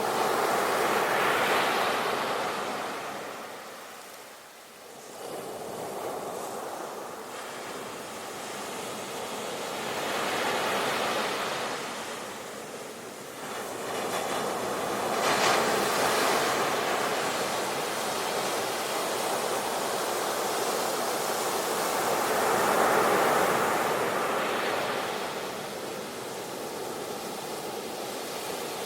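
Sea waves breaking and washing up the shore, swelling and falling in slow surges every several seconds, with a lull about four seconds in.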